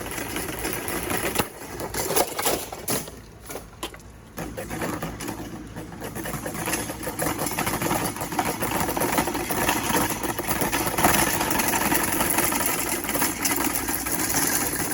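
Vintage Tatung 16-inch table fan's electric motor running with a mechanical rattle. A few sharp knocks come in the first two seconds, the sound drops back briefly about three to four seconds in, then it runs steadily and louder.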